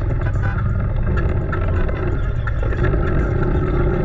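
Car engine running with a steady heavy low rumble, with scattered light clicks and knocks.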